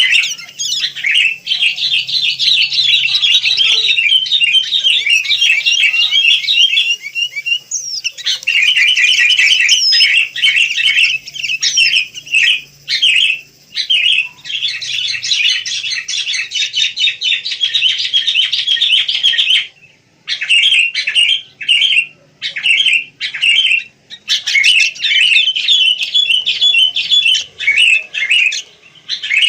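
Sooty-headed bulbuls (kutilang) chirping busily in a dense, rapid stream of calls. There are short breaks about 20 and 24 seconds in, after which the calls come in shorter separate bursts.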